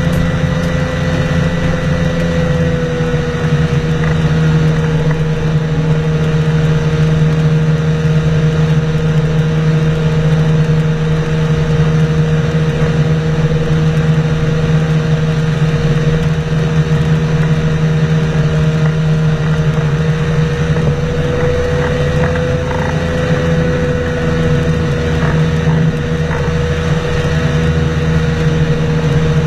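An engine running steadily at an almost constant speed, its drone carrying a steady tone.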